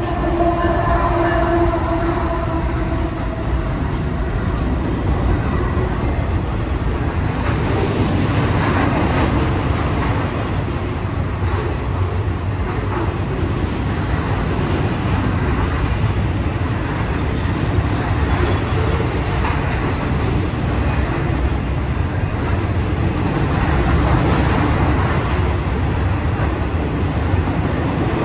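BNSF rail train of flatcars loaded with long welded rail rolling past close by: a steady, loud rumble and clatter of wheels on the track. A few held tones sound over it for about the first three seconds.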